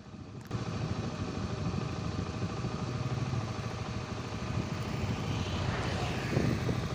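A steady mechanical drone, like a running engine, starting about half a second in.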